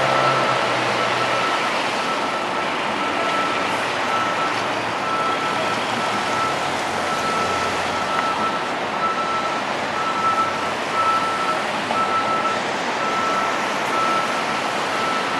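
Fire engine's reverse alarm beeping steadily, about two beeps a second, over the noise of the truck's running engine as it backs up.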